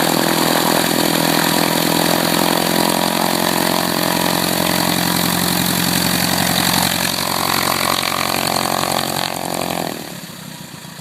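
1967 Cessna 150's four-cylinder Continental O-200 engine and propeller running steadily at power. It drops off sharply about ten seconds in.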